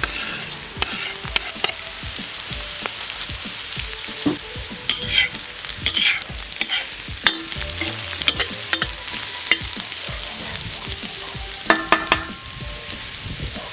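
Onion and carrot frying in butter in a kazan, a steady sizzle, with a utensil scraping and knocking against the pot as the vegetables are stirred; a quick run of knocks comes near the end.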